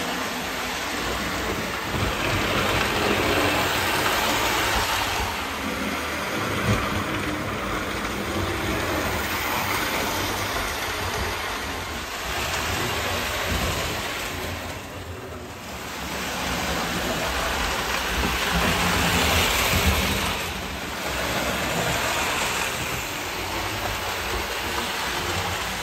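American Flyer 310 Pacific toy locomotive pulling its freight cars around the layout track: a steady electric motor hum and wheel clatter on the rails, growing louder and softer as the train circles.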